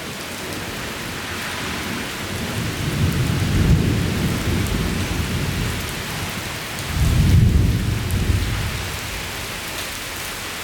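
Thunder rumbling in two long swells, the second louder, over heavy steady rain falling outside an open door.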